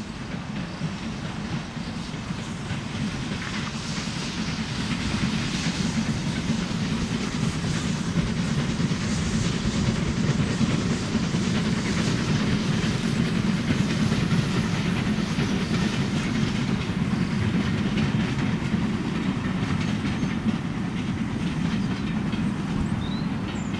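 Steam-hauled passenger train passing: a steady rumble of coach wheels on the rails with a clickety-clack over the rail joints. It grows louder over the first several seconds, then holds steady.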